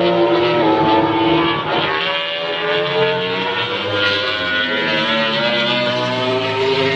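MotoGP racing motorcycles' four-cylinder engines running hard on track, several engine notes overlapping. The pitch steps and glides with gear changes and climbs slowly through the middle as a bike accelerates.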